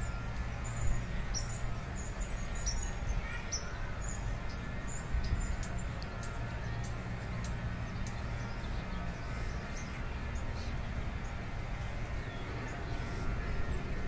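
Birds chirping: many short, high chirps, thickest in the first half, over a steady low rumble.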